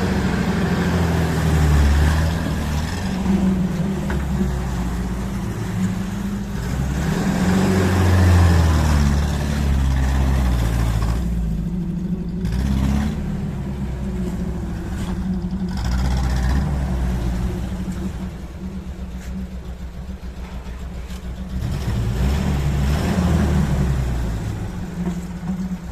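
UAZ-31512's UMZ-417 four-cylinder petrol engine running hard, revving up and easing off again and again, with a quieter stretch about two-thirds of the way through. It is running with one cylinder at zero compression and the other three at only 5.5.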